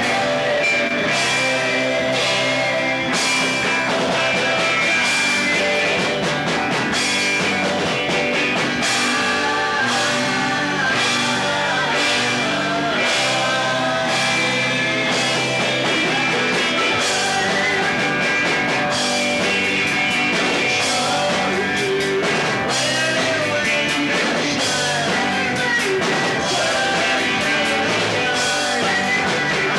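Rock band playing live, with electric guitar, drums and sung vocals.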